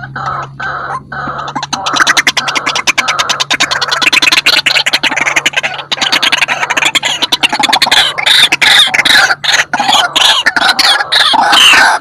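White-breasted waterhen calling: a rapid, dense run of harsh croaking notes that starts about two seconds in and grows louder. A steady low hum runs underneath until near the end.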